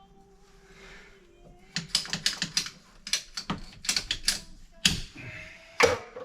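A run of quick, sharp clicks and taps in irregular clusters, starting a little under two seconds in and stopping near the end.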